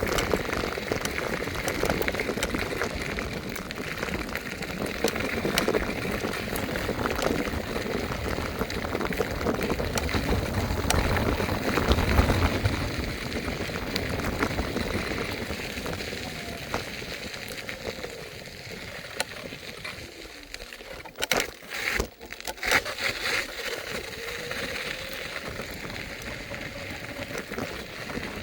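Steady rushing, crackling noise from riding an electric scooter: tyres rolling over the ground and air rushing past. It eases off about two-thirds of the way through, with a few sharp clicks soon after.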